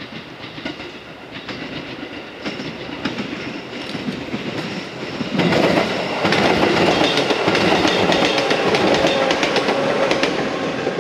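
Electric multiple unit approaching and passing close by, its wheels clacking over rail joints in a steady run of clicks; the sound builds and becomes loud about five and a half seconds in as the cars go past.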